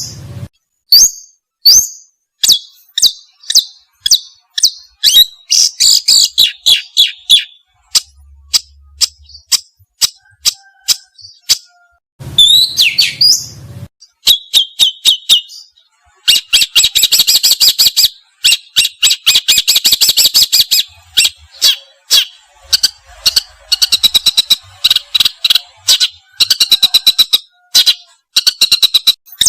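Songbird singing: sharp high chirps in quick series, broken by long, fast, rattling trills about halfway through and again near the end.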